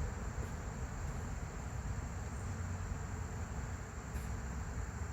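Steady high-pitched insect trilling, typical of crickets, over a low steady rumble.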